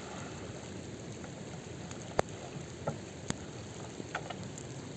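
Steady rushing water noise from the river, broken by a handful of sharp clicks, the loudest a little over two seconds in.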